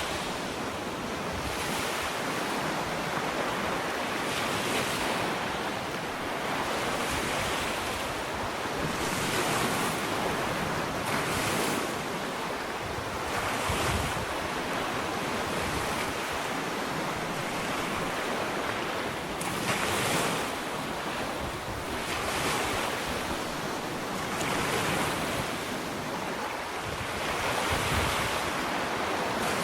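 Small ocean waves breaking and washing up a sandy beach, a continuous surf hiss that swells with each wave every couple of seconds.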